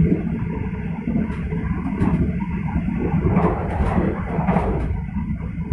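Passenger train running along the track: a steady low rumble of wheels on rail, with scattered clacks and knocks, most of them bunched between about three and a half and five seconds in.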